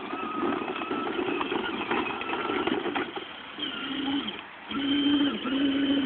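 A motor running with a steady hum. It comes in briefly just past the middle, drops out, then settles in for the rest, over a rougher mixed noise earlier on.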